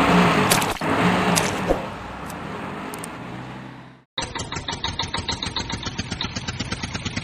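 A vehicle engine running, fading over the first few seconds. After a sudden cut about four seconds in, a small engine chugs rapidly and evenly.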